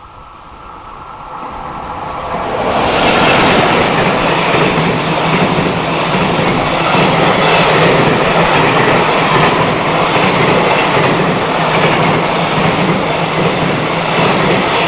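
Train passing close by at speed: the noise swells over the first three seconds as it arrives, then a loud steady rumble and clatter of wheels on rail with a low hum.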